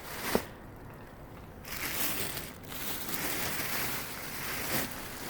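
Clothing being handled, giving a rustling noise, with one sharp knock about a third of a second in.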